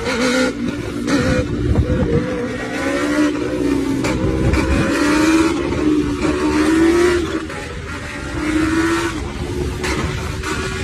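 Sport motorcycle engine running hard and revving, its pitch rising and falling several times.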